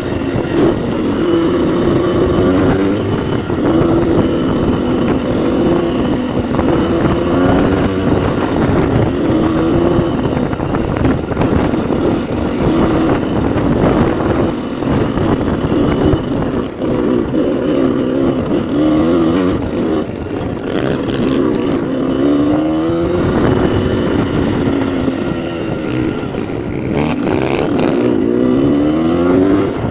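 Dirt bike engine revving up and down over and over, its pitch rising and falling with the throttle, with the clearest run-ups in the last ten seconds.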